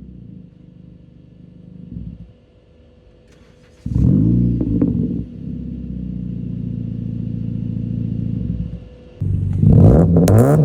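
The exhaust of a 2012 Honda Civic's 1.8-litre four-cylinder through an aftermarket eBay muffler. It runs quietly at first, jumps suddenly into a loud rev about four seconds in and holds it for several seconds, dips briefly, then revs hard again with a few sharp cracks near the end.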